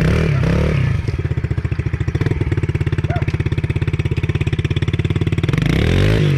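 Dirt bike engine running with a steady, even beat. The revs rise and fall briefly at the start and again near the end.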